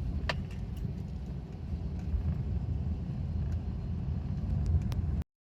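A first-generation Perodua Myvi driving over uneven road: steady low road rumble with sharp 'tak' knocks from the front end, one strong knock about a third of a second in and a few more near the end. The sound cuts off abruptly just before the end.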